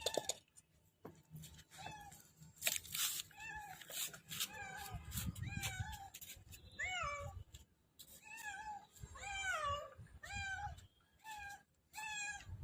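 A small pet crying again and again: short, high mewing cries, each rising then falling in pitch, coming about one or two a second, with a few light knocks and handling noise among them.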